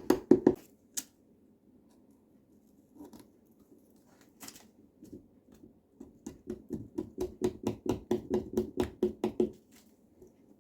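Small pumpkin-carving tool worked rapidly back and forth through the pumpkin's flesh, about six strokes a second. It stops after a moment, then runs again for about three seconds near the end, with a few single clicks in between.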